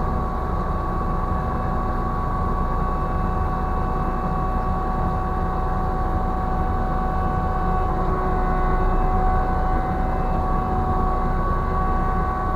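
Ship's crane machinery running steadily as the jib is lowered: a low rumble with a constant whine on top.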